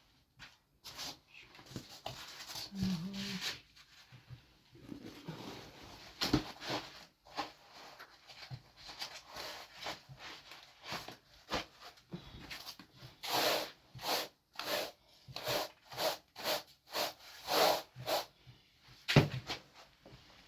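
Repeated scraping strokes, irregular at first, then about two a second in the second half.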